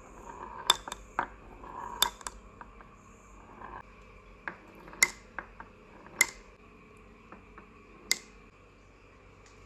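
Glass marbles clacking against each other and the run, in irregular sharp clicks with a short ringing tail, with a faint rolling sound in the first few seconds.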